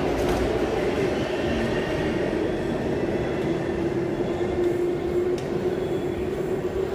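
Waratah Series 2 electric train pulling out of a station, its motors giving a steady whine over the rumble of wheels on rail.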